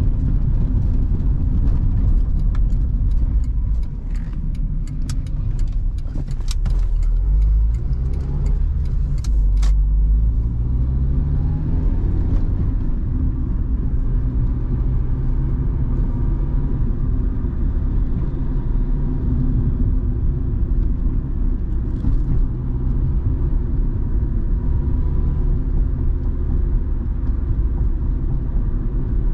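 A 1997 Honda Civic's 1.4-litre four-cylinder petrol engine driving along, heard from inside the cabin. Its pitch rises several times in the first ten seconds or so as it pulls through the gears, then it settles into a steady cruise with road rumble. Sharp clicks and knocks come over the first ten seconds.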